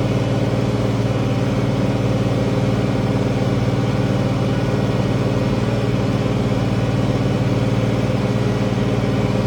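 International 1566 tractor's six-cylinder turbo diesel running steadily under load while pulling a cultivator: a constant, even engine drone with a strong low hum.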